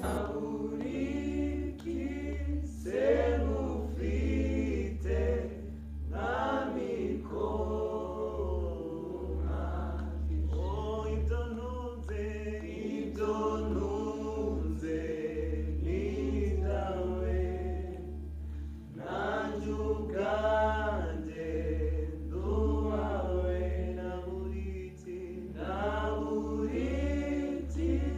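A group of voices singing together in a choir-style worship song, with a steady low hum underneath.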